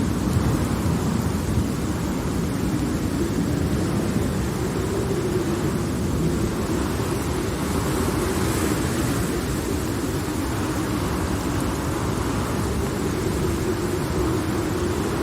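Heavy rain with a continuous low rumble of rolling thunder, steady throughout with no sharp clap.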